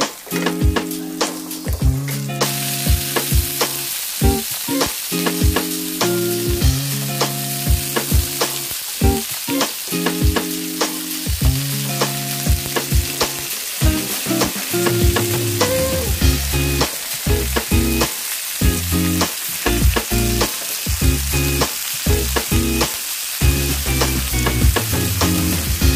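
Shallots, garlic and chicken pieces sizzling in hot oil in a wok, with a wooden spatula knocking and scraping against the pan as they are stirred. The sizzle grows louder about two seconds in.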